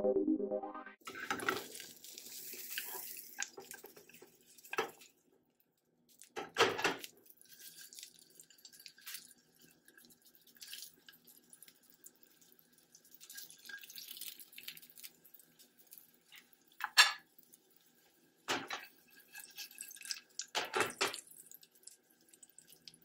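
Stuffed vegan burger patty sizzling and crackling in oil in a nonstick frying pan, with a few louder clatters and scrapes of the lid and spatula on the pan.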